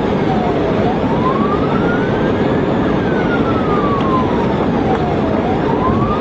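Police siren in wail mode, its pitch sliding slowly down and up about every two and a half seconds, over steady road and engine noise from a cruiser at highway speed.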